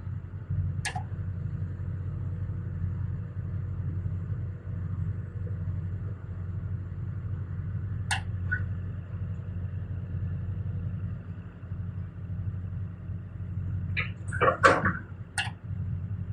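Excavator diesel engine running steadily with a low hum. A few short, sharp knocks ring over it: one about a second in, one around eight seconds, and a louder cluster near the end.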